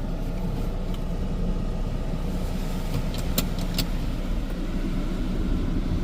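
Steady mechanical running noise of an in-bay automatic car wash working around the car, heard from inside the cabin over the car's idling engine and AC fan, with two short clicks about three and a half seconds in.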